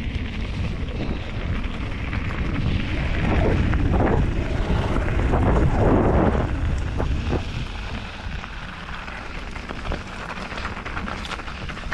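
Wind buffeting an action camera's microphone during a mountain-bike ride on a wet trail, with the rush of the tyres rolling over the ground and a few sharp knocks from the bike near the end.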